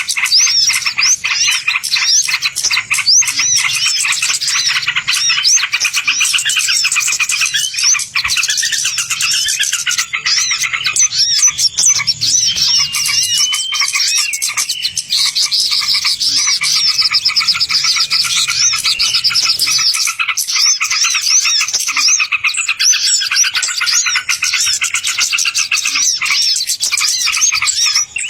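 Dense, continuous chorus of many small songbirds chirping and twittering rapidly at high pitch: a bird-lure (pikat) recording meant to draw wild birds in.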